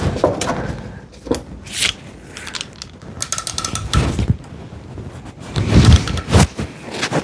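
Hand tools working on fasteners on a car engine: irregular metallic clicks, clanks and knocks, with a quick run of fine clicks a little after the three-second mark, as tight bolts are worked loose.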